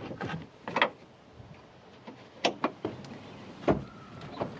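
Scattered knocks and clunks of gear being handled and packed. The heaviest thud comes a little before the end.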